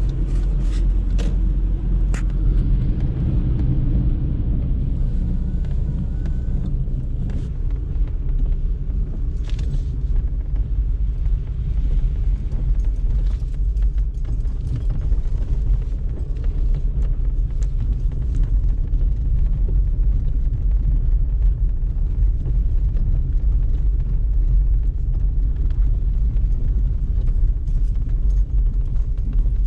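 Audi A3 driving at a steady pace: a continuous low rumble of tyres on the road and the engine, with a few faint ticks.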